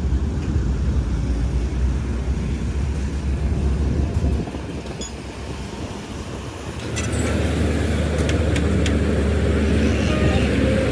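Engine running with a steady low rumble. The rumble drops away about four seconds in and comes back louder about seven seconds in, joined by a few sharp knocks.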